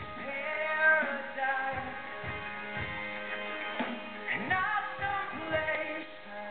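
Live rock music: a singer with guitar accompaniment.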